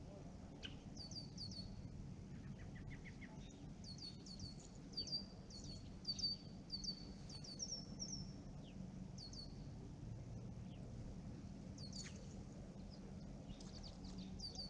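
Small songbirds chirping: runs of short, high notes that slide downward, repeated many times through the first nine seconds and again briefly later, over a faint steady low background rumble.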